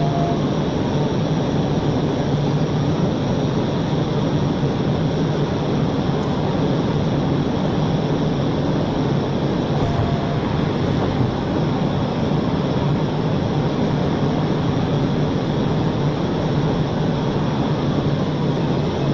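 Steady, loud road, engine and wind noise of a car travelling at high speed, with a short faint beep at the start and again about ten seconds in.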